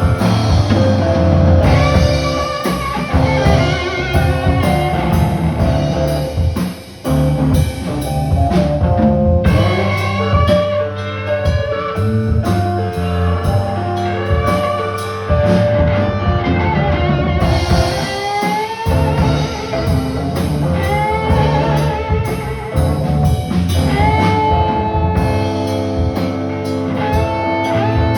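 Live blues-rock band music: guitar with bending notes over a drum kit and bass, with a brief drop about seven seconds in.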